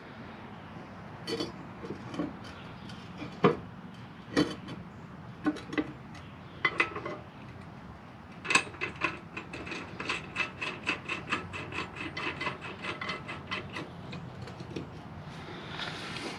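Scattered metal knocks and clicks of tools handled on a mower deck, then a ratchet wrench worked in a quick, even run of clicks, about five a second, for several seconds.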